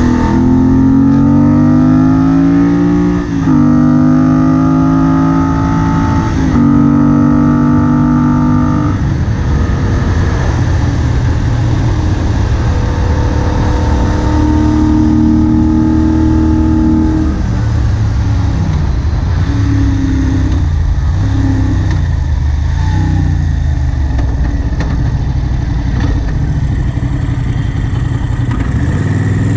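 Moto Guzzi Bellagio's air-cooled transverse V-twin under hard acceleration. It rises steeply through the gears, with a brief drop in revs at each of two upshifts in the first several seconds. It then runs at a steadier speed, and in the last third the revs dip and rise repeatedly.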